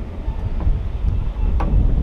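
Wind buffeting the microphone in a steady low rumble, with a faint click about one and a half seconds in.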